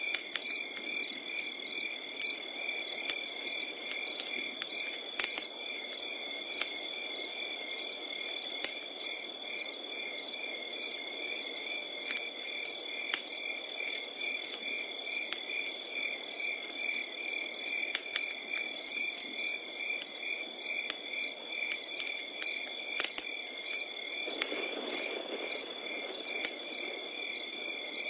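Crackling wood campfire with scattered sharp pops over a low rush of flame, under insects: a steady high trill and cricket chirps repeating a couple of times a second.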